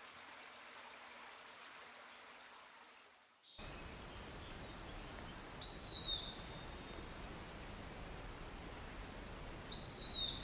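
Wild songbird calling outdoors: two loud short descending high calls about four seconds apart, with a few fainter high notes between them, over a steady background hiss. The hiss starts abruptly about three and a half seconds in, after a quieter fade.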